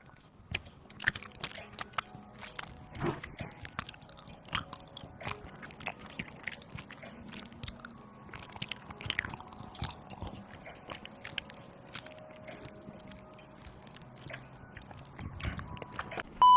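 Close-miked eating: irregular crunchy bites and chewing, done as mukbang ASMR.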